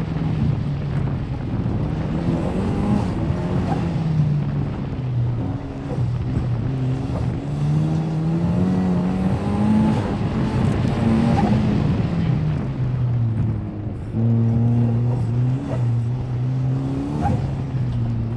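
Turbocharged 1.8-litre Mazda BP four-cylinder of an Exomotive Exocet track car, heard from the open cockpit while it is driven hard. The engine note climbs, holds and falls again and again as the car accelerates, lifts and changes gear, with one brief drop in level about two-thirds of the way through.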